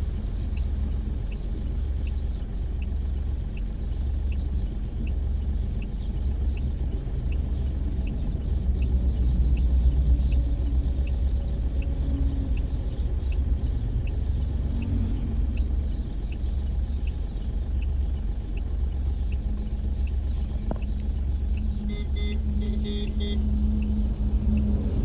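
Steady low rumble of road traffic on a highway bridge, with a faint high tick about twice a second. A brief tone sounds near the end.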